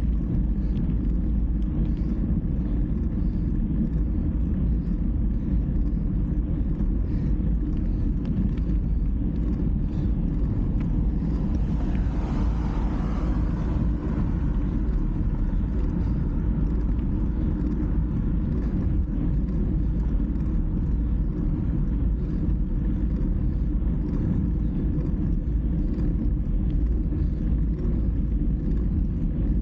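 Steady low rumble of wind and road noise on a moving camera, with a brief louder whoosh about twelve seconds in.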